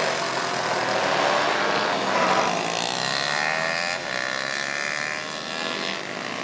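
Several small pitbike engines revving on a race track, their overlapping pitches rising and falling as they accelerate and pass.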